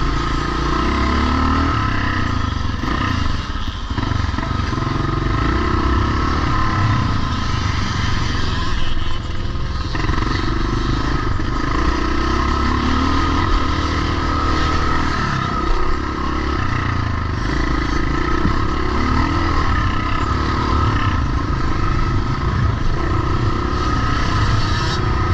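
Pre-1990 vintage motocross motorcycles running on the track, their engines revving up and down over and over as they ride.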